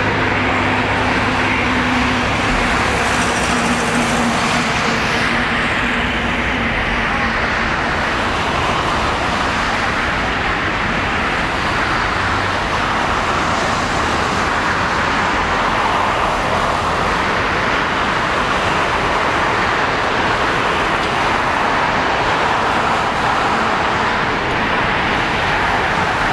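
Jet airliner engine noise: a loud, steady roar that holds evenly throughout, with a faint humming tone in the first few seconds that fades out.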